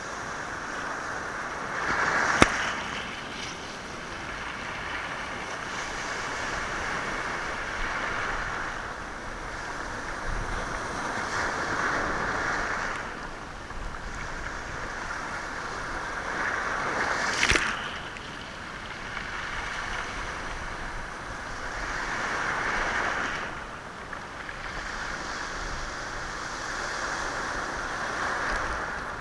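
Sea waves washing onto a rocky shore, surging and drawing back about every five seconds with the sound of stones moved by the water. Two sharp stone clacks stand out, one about two seconds in and one a little past the middle.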